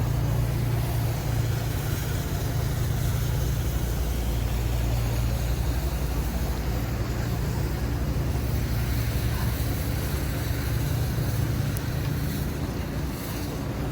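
A motor vehicle's engine running with a steady low hum, over a wash of city street noise.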